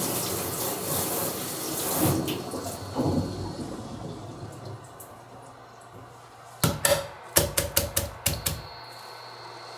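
Water running from a kitchen tap, starting suddenly and dying away after about four seconds. A few seconds later comes a quick run of about eight sharp knocks and clatters.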